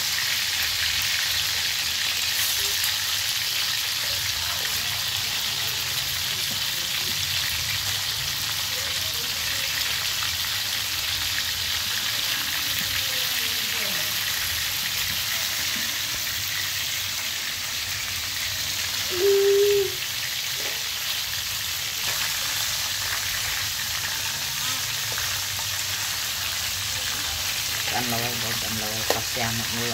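Whole frogs frying in hot oil in a steel wok: a steady sizzle, with a metal spatula stirring and scraping in the pan now and then. About two-thirds of the way in, a short steady tone lasting about a second stands out as the loudest sound.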